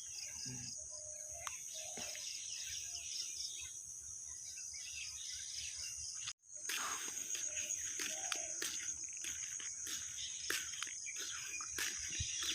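Rural outdoor ambience dominated by a steady, high-pitched insect trill, with a few short bird calls early on. The sound cuts out completely for a split second about six seconds in, then resumes.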